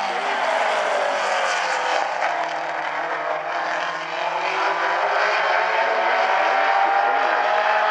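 A pack of race car engines running at speed around a short oval track, several engine notes overlapping, their pitch sliding down and then climbing again as the cars go through the turns and pass.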